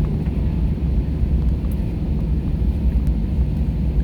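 Steady, loud, low rumble of a jet airliner's engines and airflow during takeoff, heard from inside the passenger cabin.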